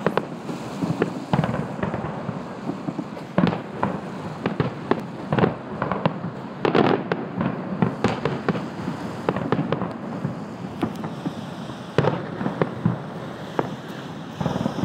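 Aerial firework shells bursting in a rapid, irregular series of bangs, some much louder than others.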